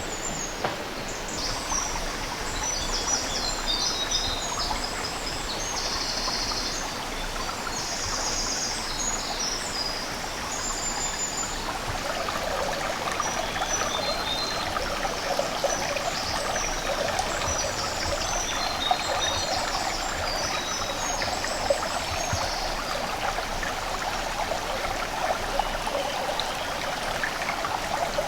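Woodland stream running steadily, with songbirds singing over it; the birdsong is busiest in the first dozen seconds and returns briefly about two-thirds of the way through, while the water grows a little louder after the first dozen seconds.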